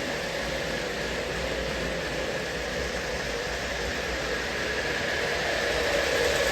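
O-scale model train running: two Lionel Lion Chief Dash 8 diesel locomotives hauling tank cars, a steady rumble of wheels on track with motor hum, growing louder near the end.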